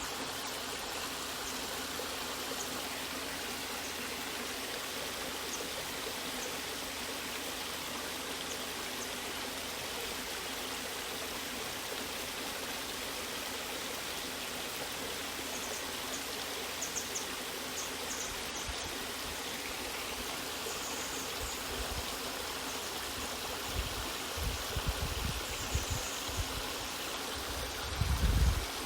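Natural waterfall: a steady, even rush of falling and flowing water. In the last few seconds low, irregular thumps join it, the loudest about a second before the end.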